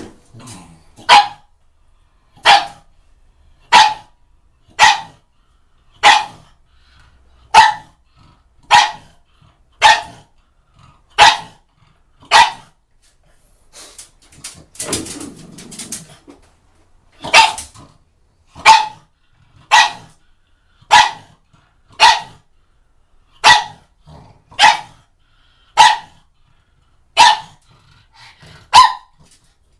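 A dog barking over and over in single, evenly spaced barks, roughly one a second, with a short break about halfway through.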